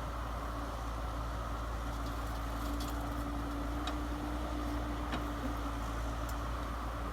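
Radio-controlled model truck's electric motor and gears running with a steady hum, with a few light clicks.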